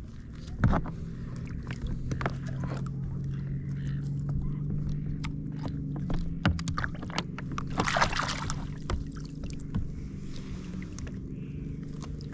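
Knocks and clicks of handling on a kayak, with water sloshing and a longer splash about eight seconds in, over a steady low drone.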